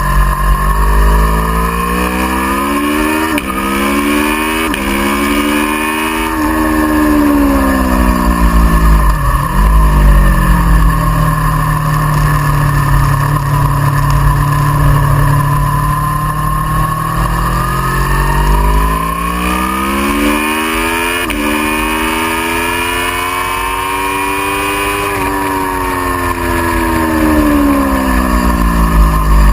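Aprilia Tuono V4R's 1000 cc V4 engine pulling hard up through the gears, with quick upshifts a few seconds in. It then drops sharply as the bike brakes, holds a steady lower note, climbs through the gears again and falls away near the end. Heavy wind rumble on the microphone under it.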